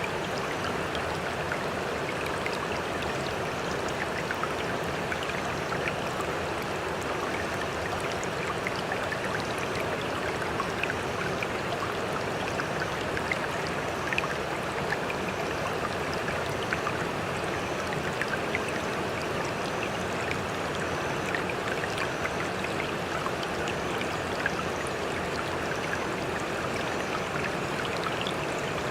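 Sea water washing steadily, with many small splashes and trickles and no separate swells of waves.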